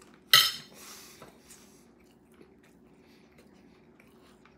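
Close-miked mouth noises of a man chewing food, with one sharp, loud burst about a third of a second in that fades quickly, then faint chewing.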